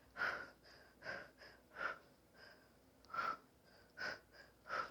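A woman breathing hard from exertion during a side plank hip-dip exercise: about six short, sharp breaths in and out, roughly one a second, with a pause around the middle.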